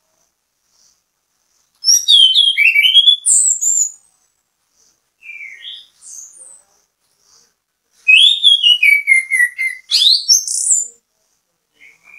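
Chestnut-capped thrush singing: two loud phrases of fast, varied whistled notes that sweep up and down, about two seconds apart, with a few soft single notes between them.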